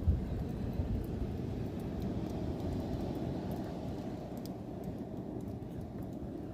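Blizzard wind as a steady low rushing rumble, rough on the microphone, with a few faint ticks scattered through it.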